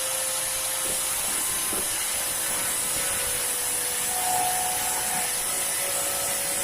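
A loud, steady hiss with no rhythm or pitch changes.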